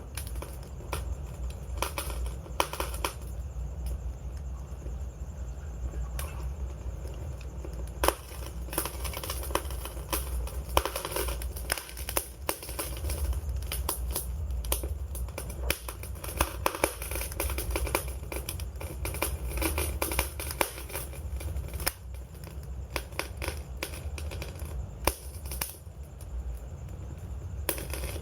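Wood fire crackling and popping: irregular sharp snaps at different strengths, several a second, over a steady low rumble of burning.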